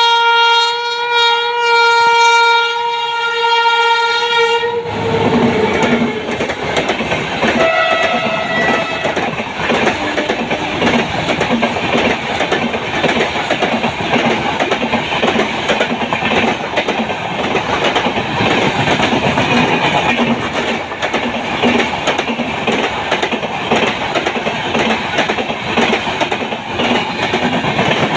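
WAP-7 electric locomotive's horn held in one long steady blast for about five seconds, falling slightly in pitch as it ends. It is followed by the express rushing past at speed, its wheels clattering over the rail joints in a steady rhythm.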